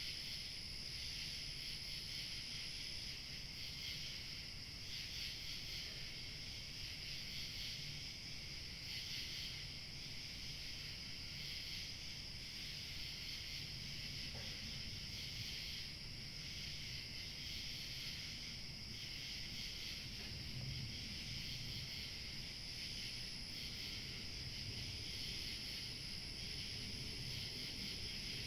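Steady outdoor chorus of chirping crickets over a low, even rumble of light wind. A thinner, higher insect trill joins for the first few seconds and again near the end.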